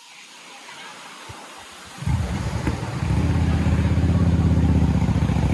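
A motor vehicle's engine running close by, steady in pitch with a fast pulse. It comes in about two seconds in and gets louder a second later.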